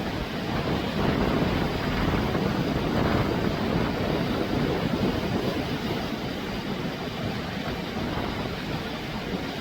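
Steady rushing of a river swollen by flood after heavy rain.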